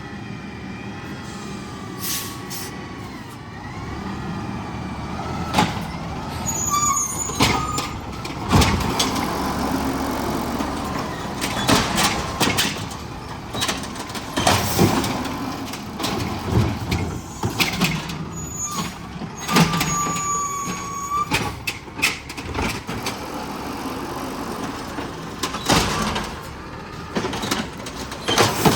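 Garbage truck working its route: the engine runs under repeated sudden knocks and clanks, with short high squeals about a quarter of the way in and again past the middle.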